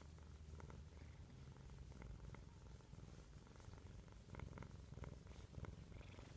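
Bengal cat purring softly and steadily, a low rhythmic rumble, with a few faint clicks a little past the middle.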